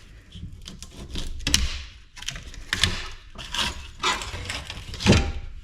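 Irregular clicks, knocks and short scrapes of a part being worked loose while dismantling a large light fixture, the loudest about a second and a half in and again near the end.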